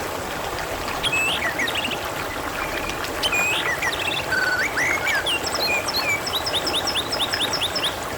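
Steady trickling, babbling water with birdsong over it: scattered whistled and rising notes, and a quick run of repeated chirps in the second half.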